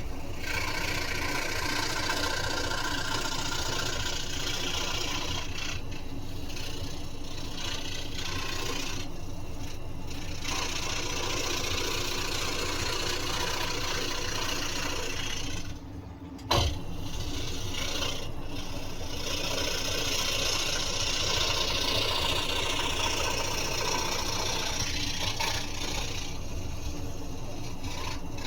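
Scroll saw running steadily with its reciprocating blade cutting wood. About halfway through the sound drops briefly, then a single sharp click.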